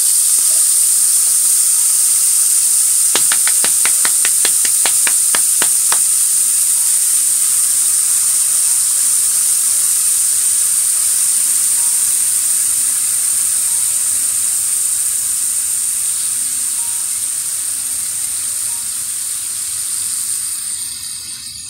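Chicken liver pieces frying in hot oil in a nonstick pan, a steady loud sizzle. A few seconds in comes a quick run of about a dozen sharp clicks, and the sizzle fades down near the end.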